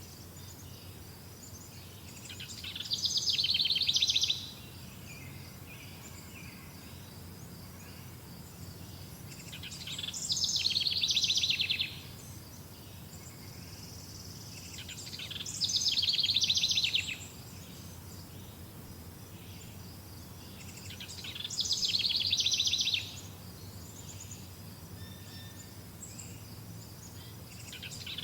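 A songbird repeating a rapid trilled phrase about every six seconds. Each phrase lasts about two seconds and swells in loudness before breaking off abruptly. Between phrases there is a faint steady high hiss.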